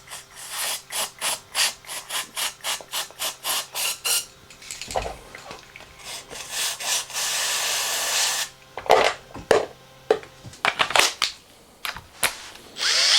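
Aerosol brake cleaner sprayed into a crunchy, worn scooter wheel bearing: a steady hiss lasting about two seconds midway. Before it comes a run of short rhythmic strokes, about four a second, and after it a few sharp knocks. A power drill starts up right at the end.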